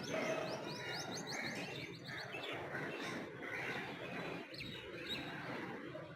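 Small birds chirping: a quick run of high chirps in the first couple of seconds, then scattered calls over steady outdoor background noise.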